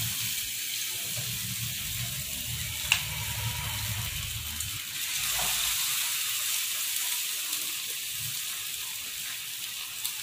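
Marinated chicken tikka pieces frying in hot oil in a kadai, a steady sizzling hiss. A single light click about three seconds in.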